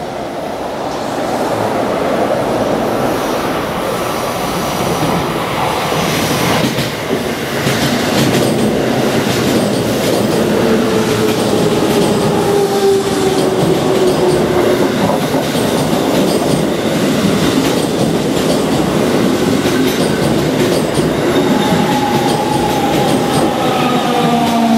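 JR Central 373 series electric train running through the station with a steady loud rumble of wheels on rail. Thin whines fall in pitch about halfway through and again near the end, as the train slows.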